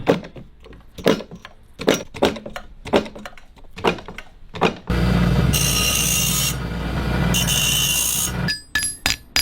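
Hand tools working on wood and metal: about ten sharp, separate strikes or strokes. About five seconds in, a power tool starts, runs steadily for about three and a half seconds, and cuts off. Quick ringing metal clicks follow near the end.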